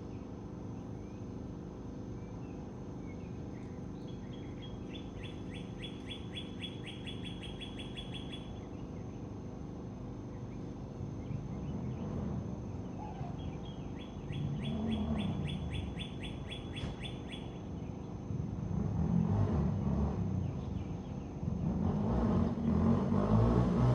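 Steady low background hum with a bird's rapid trill heard twice. From about halfway through, a vehicle engine comes closer in waves, its pitch sweeping up and down, and it is loudest near the end.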